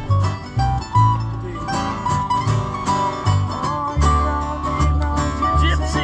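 Acoustic bluegrass band playing an instrumental break: quick picked banjo, guitar and mandolin notes over a line of low bass notes.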